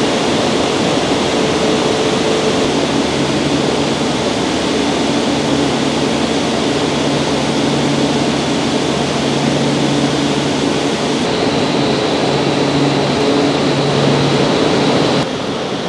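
Steady hum and rushing noise of a stopped E2 series Shinkansen at the platform with its onboard equipment running. The noise drops a step shortly before the end.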